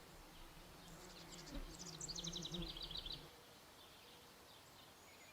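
A small songbird singing a quick trill of rapid, evenly repeated high notes that step down in pitch, starting about a second in and lasting some two seconds. A low, faint hum runs beneath it and fades out a little after the song ends.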